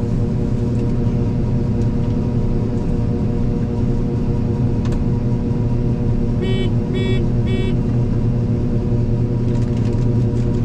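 A vehicle engine running steadily at a constant drone. Three short electronic beeps sound a little past the middle.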